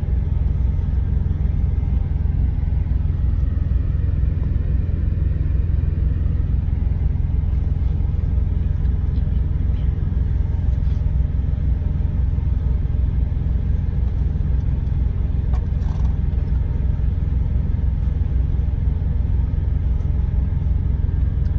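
Steady low drone of a truck's engine running, heard from inside the cab, with a few faint clicks over it.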